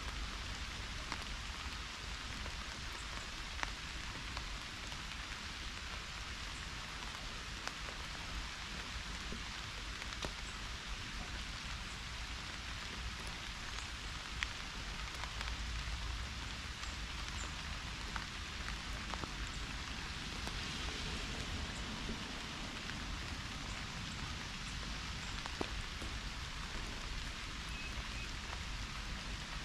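Pouring rain falling steadily: a dense, even hiss with a low rumble underneath and scattered sharp ticks of single drops.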